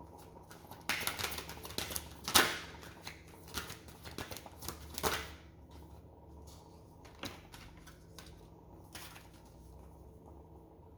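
A deck of oracle cards being shuffled and handled by hand: a quick run of card flicks and snaps for a few seconds, then a few scattered clicks as the cards settle.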